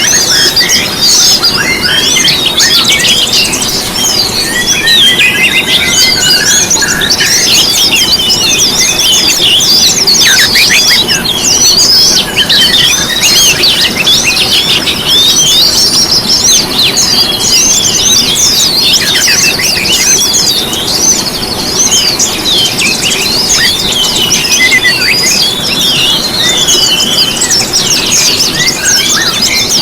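Dense chorus of many small songbirds chirping and twittering at once, high-pitched and overlapping without a pause, over a steady low hiss. It is a mixed lure ('pancingan') recording of songbirds such as white-eyes, magpie-robins, canaries and shamas, played to prompt caged birds to sing.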